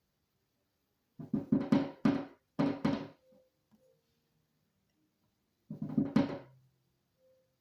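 A woodpecker hammering on a window pane: three quick bursts of rapid knocks on the glass, the second shorter than the first, with a pause of a couple of seconds before the third.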